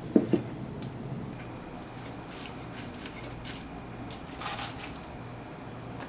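Two sharp knocks close together near the start, then scattered light clicks and a brief rustle about halfway through, over a steady low hum: small objects being handled and set down in a small room.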